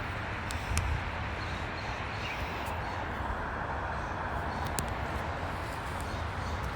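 Steady outdoor background rumble and hiss, like distant traffic or machinery, with a few faint clicks.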